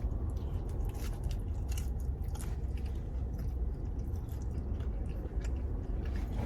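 A person chewing and biting into a hard, dry, overcooked Pizza Hut chicken bacon melt, with many short, irregular crunches over a steady low hum.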